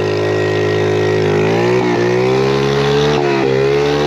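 Small pit bike engine running under riding throttle. The revs rise slightly about a second and a half in, dip briefly twice, and fall off near the end.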